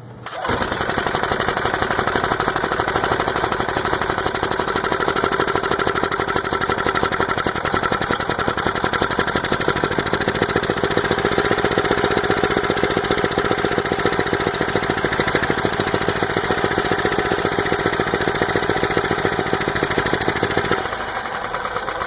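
Yamaha G2 golf cart's single-cylinder four-stroke engine running at a steady fast speed with its air box off, coming in suddenly just after the start and easing slightly near the end. It runs poorly and spits gas back out of its new carburetor; the owner has ruled out compression, spark and fuel.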